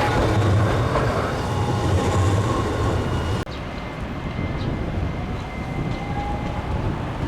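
Hiroshima Electric Railway tram 5101 running on its track, a rumble with faint steady wheel-squeal tones. About three and a half seconds in the sound cuts off abruptly to a quieter stretch of tram rumble.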